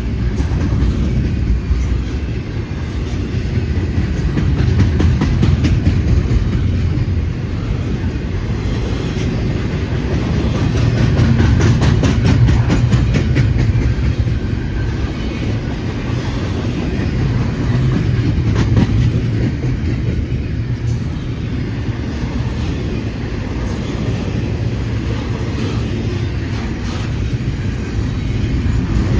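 Freight train cars rolling past: a steady low rumble of steel wheels on the rails, with rapid clicking as the wheels cross rail joints.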